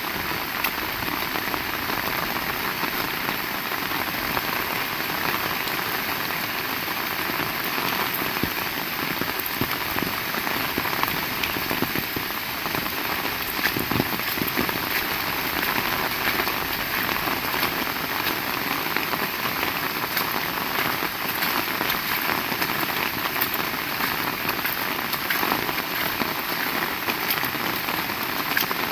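Heavy rain falling steadily, with many close drops striking as sharp ticks over a constant hiss.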